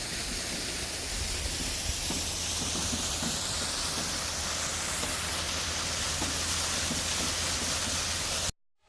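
Steady rush of running water from a waterfall and stream, a continuous hiss-like noise that cuts off abruptly near the end.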